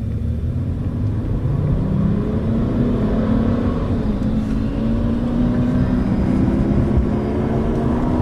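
Two 500 hp cars accelerating hard side by side at full throttle: a Lamborghini Gallardo's V10 with a Tubi exhaust and the supercharged V8 of the Alpina B5 carrying the camera. It gets louder over the first two seconds and the engine note rises steadily in pitch.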